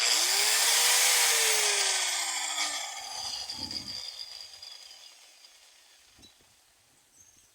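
Electric angle grinder switched on and biting into the pickup's sheet metal with a harsh grinding hiss. The motor whine climbs for about a second, then sinks as it is let go, and the grinder coasts down over the next few seconds.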